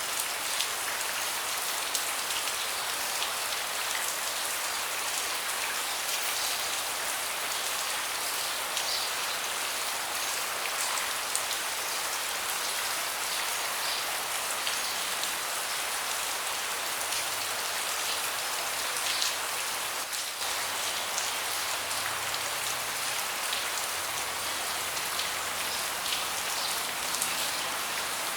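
Steady rain falling, a dense even hiss with many individual drops ticking sharply on a hard surface close by.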